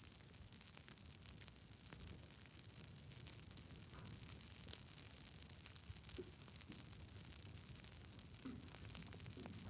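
Wood campfire burning, with a steady stream of small crackles and pops over a low hiss.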